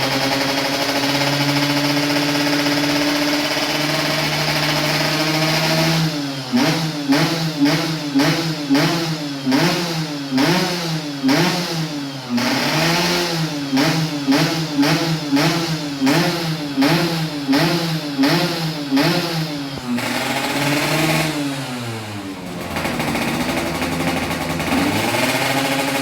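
Motorcycle engine through an aftermarket RTX racing exhaust, running steadily at first, then blipped up and down in quick repeated revs for about fourteen seconds, before settling back to idle near the end.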